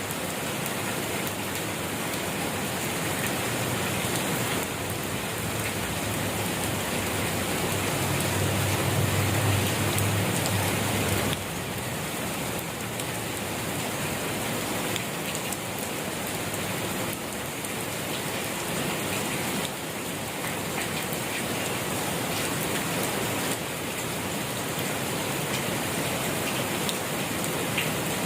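Steady rain falling on surfaces, an even hiss of many drops. A low rumble swells beneath it about eight to eleven seconds in.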